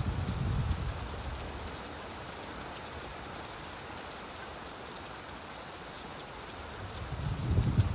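Steady rain falling, with a low rumble of thunder fading out in the first second and another rumble swelling up near the end.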